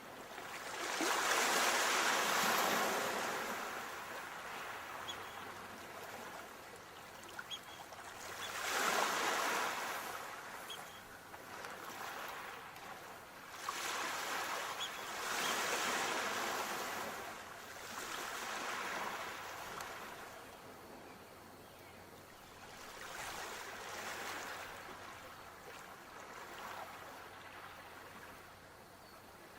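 Sea waves breaking and washing onto a shore, the surf swelling and fading in slow surges every few seconds, the largest about two seconds in.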